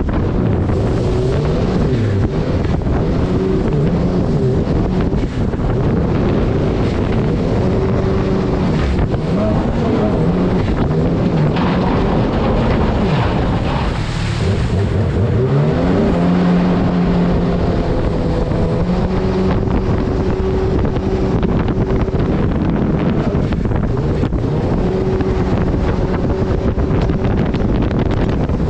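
Turbocharged Honda engine of a mini jet boat running hard, its pitch rising and falling with the throttle, dropping about halfway through and then climbing again. Rushing water and wind on the microphone run underneath.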